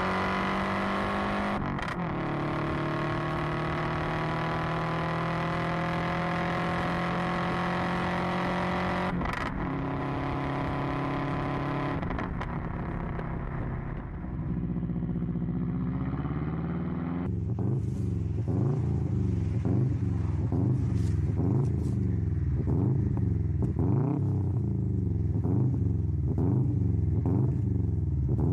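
Subaru flat-four engine and exhaust pulling hard under acceleration, its pitch climbing in each gear with brief breaks at the gear changes. From about halfway, a Subaru Impreza WRX STI's engine is revved over and over at a standstill, rising and falling about once a second.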